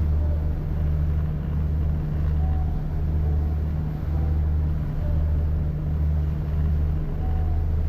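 An engine running with a steady low drone that pulses slightly about once a second.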